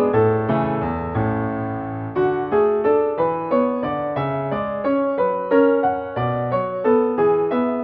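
Background piano music, a waltz, with notes struck one after another and each fading away.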